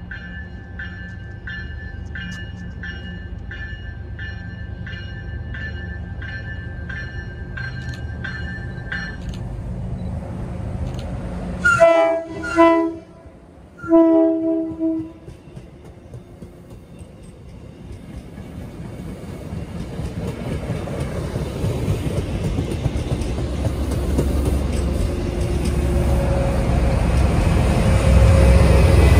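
MBTA commuter rail train: a bell rings steadily, about one and a half strokes a second, and stops about nine seconds in. Two short horn blasts sound near the middle. Then the train of bilevel coaches and its locomotive rumbles past, growing louder toward the end.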